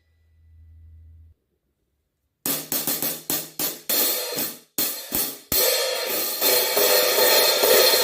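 15-inch Omete Knight Series hi-hats played with a stick: about eight separate strokes, then from about five and a half seconds in a continuous wash of quicker playing.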